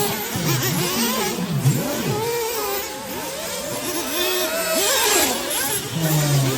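Several 1/8-scale nitro off-road RC buggy engines racing together, each revving up and easing off in quick, overlapping swoops of pitch.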